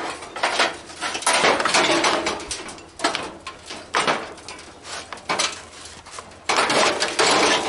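Sheet-steel barbecue grill parts clattering and scraping as they are handled, in several rattling bursts, the loudest about a second in and near the end.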